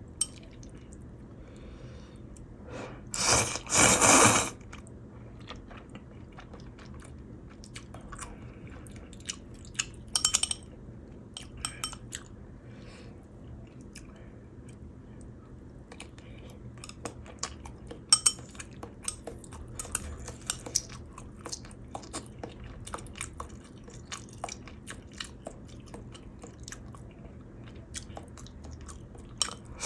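A person eating Korean ramen close to the microphone: chewing with crunchy bites and small wet clicks. A loud slurp comes about three seconds in and a shorter one near ten seconds.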